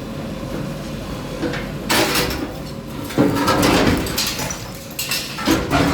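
Demolition by a bulldozer: scraping and crashing of the machine breaking into a building, in three noisy bursts, about two seconds in, around three seconds in and near the end.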